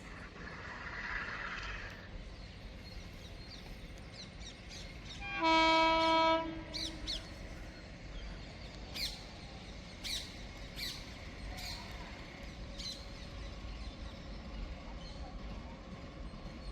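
Train horn sounding one steady blast of about a second, about five seconds in, over quiet lineside background.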